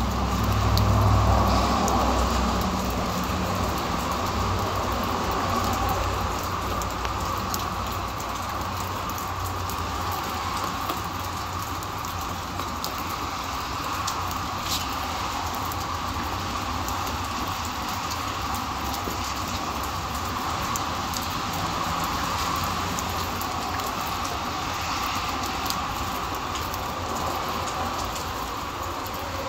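Steady rain falling, with small drop ticks scattered through it. A low rumble rises and fades over the first few seconds.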